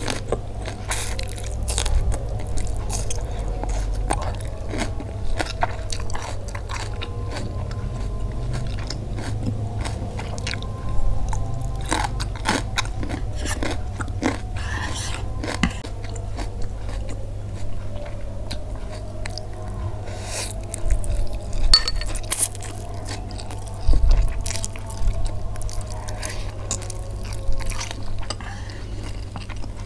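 Close-miked chewing and biting of fried instant noodles (Indomie goreng) and crisp leafy greens, with irregular wet mouth clicks and crunches, over a steady low hum.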